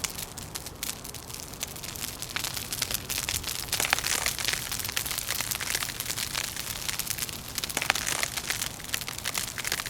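Wood fire crackling, with a dense run of sharp snaps and pops over a soft hiss that thickens about four seconds in.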